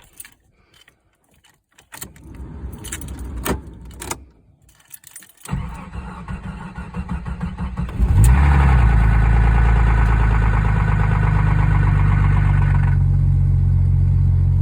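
Cold start of a 1989 Jeep Cherokee's 4.0-litre inline-six: the starter cranks in two goes, and the engine catches about eight seconds in and settles into a steady idle. For the first few seconds after it catches there is a higher-pitched clatter, the dry startup before the oil pressure builds, which comes up a little late.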